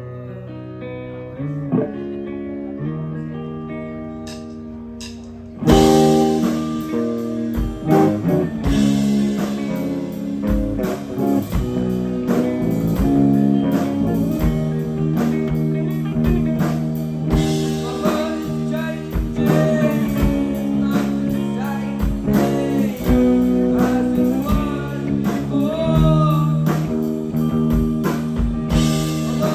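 Live rock band: a lone electric guitar plays a quiet passage, then about six seconds in the full band crashes in with drums, bass and distorted guitar and keeps playing loudly.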